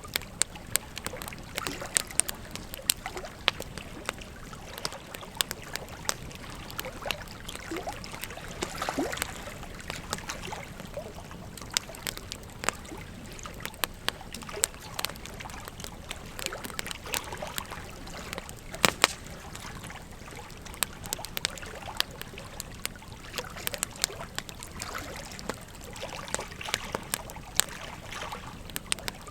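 Wood fire crackling, with frequent irregular sharp pops and snaps, over the steady rush of flowing river water.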